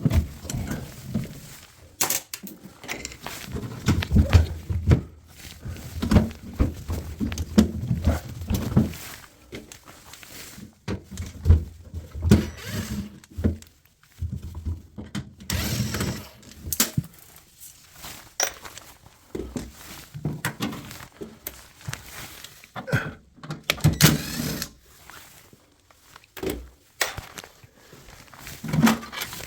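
Irregular knocks, thunks and clicks of hands and tools working on the panels and parts of a drum washing machine being taken apart, with scattered heavier thuds.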